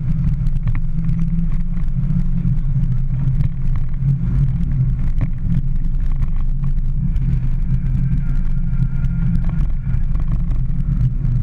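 Mini Cooper S four-cylinder engine running at a steady pitch, heard from inside the cabin along with road noise while the car laps a track.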